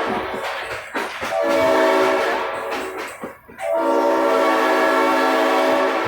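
Locomotive horn sounding from the train: a shorter blast about a second and a half in, then a longer one held for about two seconds, with the train running in between. The pattern fits the end of a long-long-short-long grade-crossing signal.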